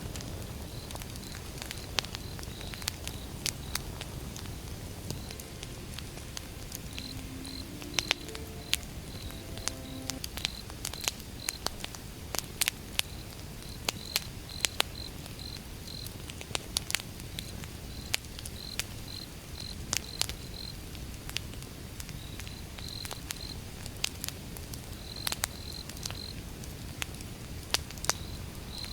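Wood fire burning with a steady low rumble and irregular sharp crackles and pops. Crickets chirp throughout in short trilled groups.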